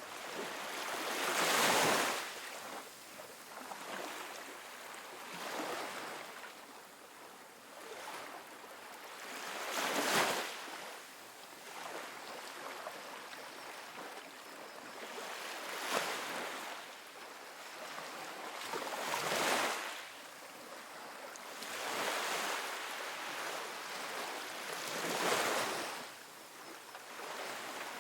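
Small ocean waves breaking and washing up a sandy beach: a hiss that swells and fades, with about five louder breakers spaced several seconds apart.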